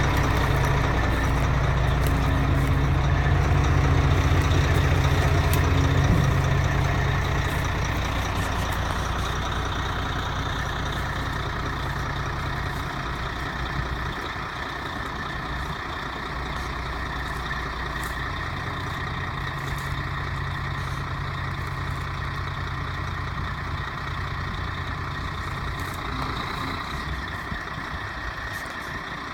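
International 2674 grain truck's diesel engine running steadily. It is loud for the first six seconds, then grows fainter over the next several seconds and settles at a lower level.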